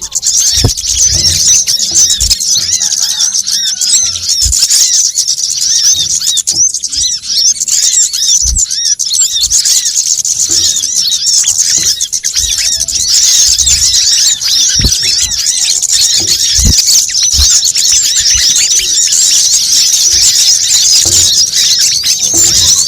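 Bird-lure recording of small birds such as sunbirds: a dense, unbroken chorus of rapid, high-pitched chirps and twitters from many birds calling at once, played to draw wild birds in. A few short, dull low thumps are scattered through it.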